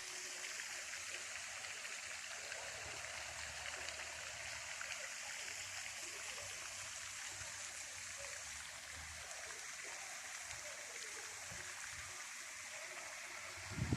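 Flowing water rushing steadily, an even hiss with no single splashes standing out.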